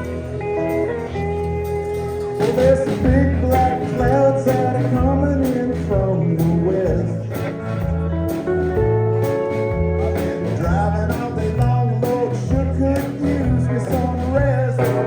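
Band playing a country-blues song: bending guitar lines over bass and a steady drum beat.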